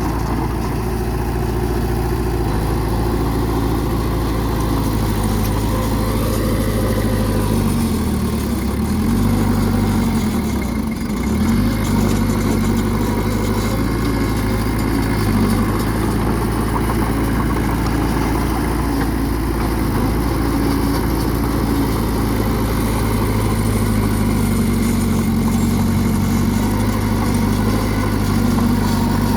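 Bulldozer's diesel engine running steadily, its pitch dipping and coming back up twice about a third of the way in.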